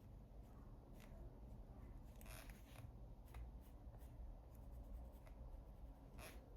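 Faint scratching of a coloured pencil shading on paper in short, irregular strokes.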